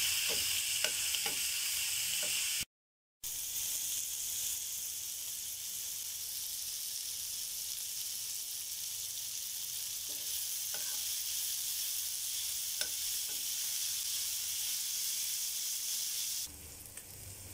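Chicken, onion, tomato and capsicum sizzling in a frying pan, with a steady hiss and a few scrapes of a spoon stirring against the pan, mostly in the first second or two. The sound cuts out for about half a second around three seconds in, and the sizzle drops away near the end.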